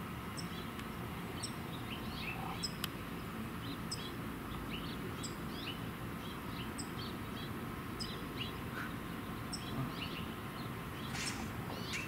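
Small birds chirping: short high chirps at varied pitches, with a sharp high note repeating every second or so, over a steady low background rumble.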